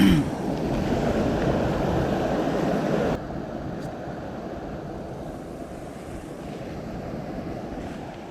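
Mountain stream water rushing as a steady wash. About three seconds in it drops suddenly to a quieter, duller rush.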